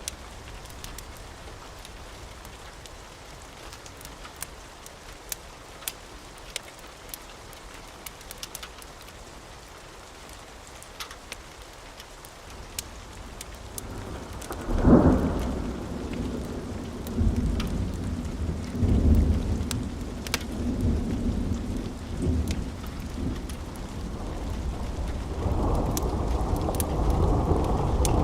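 Thunderstorm with wood fire crackling: rain and scattered crackles at first, then thunder builds to a loud clap about halfway through and keeps rumbling in waves. The rain grows heavier near the end.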